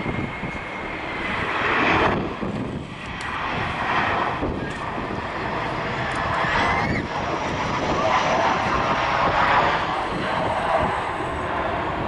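Airbus A318-111's CFM56 jet engines passing close by during landing: a steady jet rush with a faint whine. Gusty wind buffets the microphone, so the level surges unevenly.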